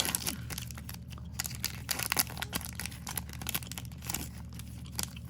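Foil wrapper of a trading-card pack crinkling and tearing as the pack is opened: an irregular run of sharp crackles.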